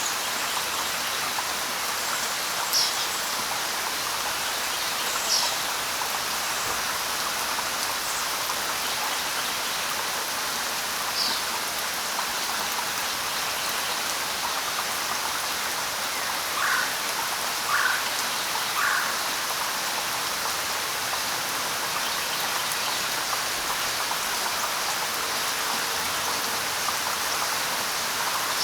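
Light rain falling steadily. A few short bird calls sound over it, with three lower notes about a second apart past the middle.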